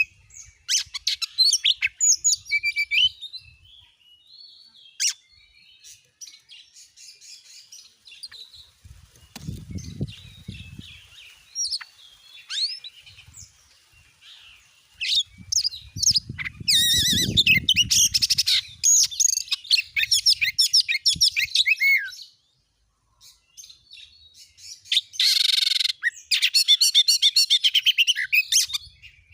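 Oriental magpie-robin (kacer) singing in rapid, varied bursts of whistles and chattering notes, the fast 'gacor nembak' song of a bird in full voice that is used to provoke other kacer. The song breaks off briefly about two-thirds through, then resumes.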